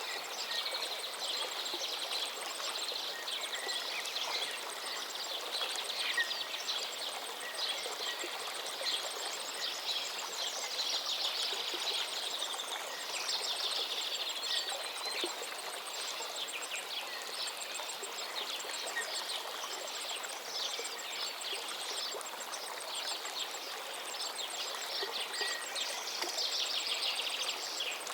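A river flowing steadily, with many small birds chirping and twittering over it throughout. A faint, fast, high ticking runs along beneath the birdsong.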